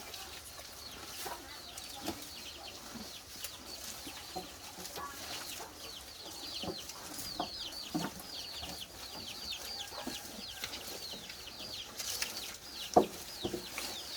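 Backyard chickens clucking, with a dense run of short high descending peeps that thickens from about five seconds in. A sharp knock sounds near the end.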